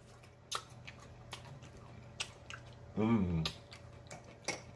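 Close-up mouth sounds of a man eating pork rinds: several sharp lip-smacking clicks, and a short voiced sound from him about three seconds in.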